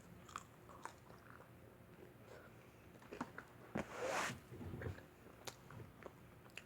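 A person biting and chewing pizza close to the microphone: soft, scattered mouth clicks and smacks, with one louder, rough half-second burst about four seconds in.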